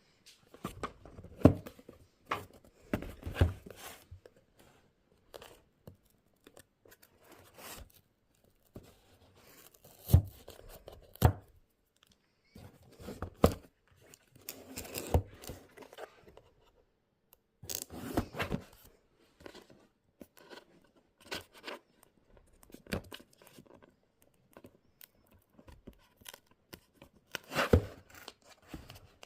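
Speaker packaging being handled and opened by hand: irregular bursts of tearing and rustling, with a few sharp knocks and quiet pauses in between.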